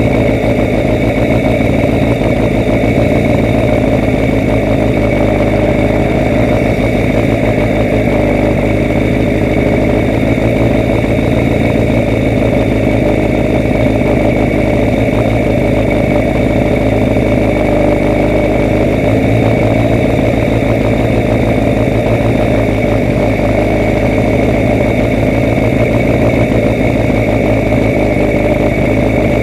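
A vehicle engine running steadily at an even pitch, with no change in speed or load.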